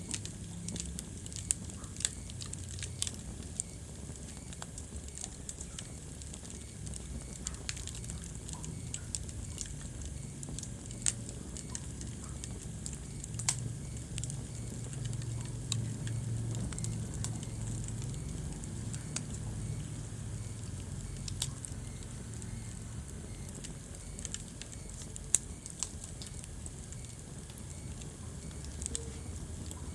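Wood fire burning in a fireplace: irregular sharp crackles and pops over a steady low rumble of flames, with a few louder pops now and then.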